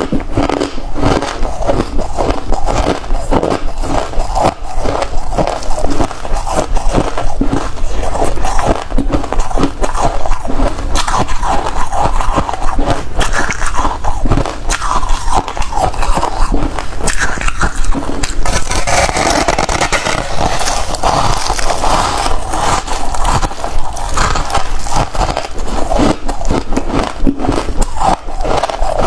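Close-miked crunching of freezer frost being bitten and chewed: a dense, unbroken run of rapid, irregular crunches.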